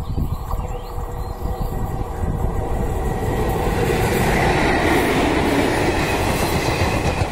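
Indian Railways electric locomotive hauling a passenger train, approaching and passing close by. The rumble and wheel-on-rail noise swell from about three seconds in and stay loud.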